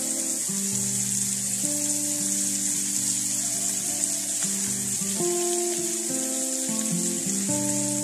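Sliced onions and dried anchovies sizzling in oil in a pan, a steady high hiss, under background music of held notes that change about once a second.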